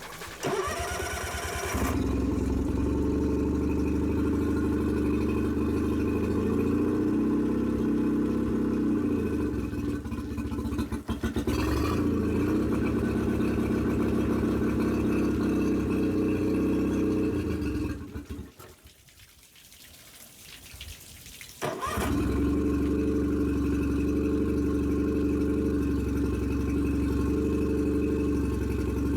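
2006 Nissan 15 hp four-stroke outboard motor cranking over and catching about two seconds in, then running steadily. Around two-thirds of the way through it goes quiet for a few seconds, then starts again and runs steadily.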